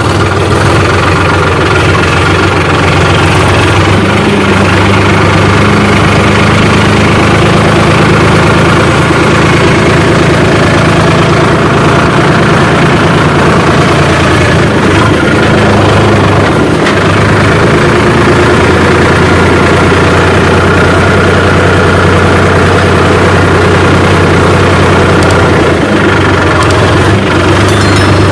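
Sonalika DI 47 tractor's diesel engine running steadily at a low, even speed, with a small change in engine speed about four seconds in.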